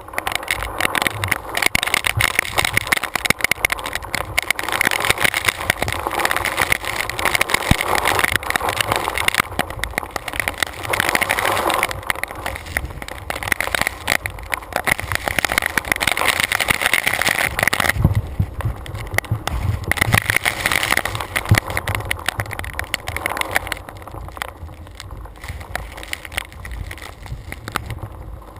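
Storm wind gusting over a truck-hood-mounted GoPro, with rain spattering on the camera, a dense rushing noise that rises and falls and eases off in the last few seconds.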